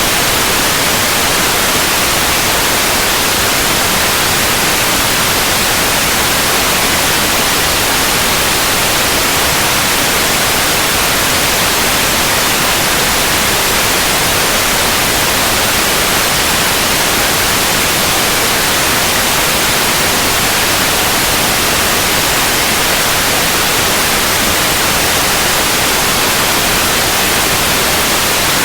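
Synthetic white noise: a steady, even hiss that does not change, heaviest in the high frequencies.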